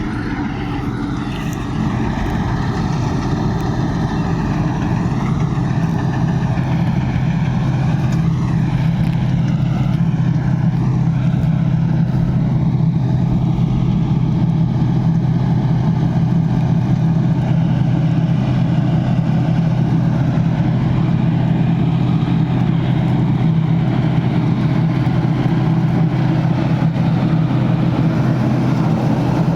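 John Deere 5405 tractor's diesel engine running steadily: a constant low drone that grows louder over the first two seconds and then holds even.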